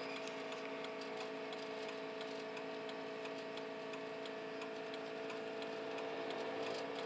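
Steady, even ticking, like a vehicle's turn-signal or hazard-flasher relay, over a steady low hum.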